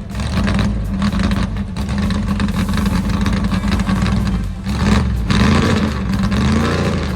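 Drag-race car's engine running loud with a rough, choppy idle, its pitch rising briefly near the end.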